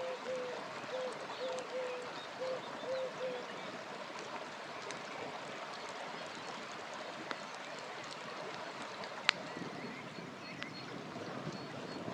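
River flowing steadily, with a few sharp campfire crackles and one louder pop about nine seconds in. A low note repeats about twice a second for the first three seconds, and a faint high pulsing note comes in near the end.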